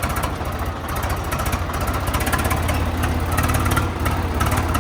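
Tractor's diesel engine running steadily at low speed, with an even low pulsing throb.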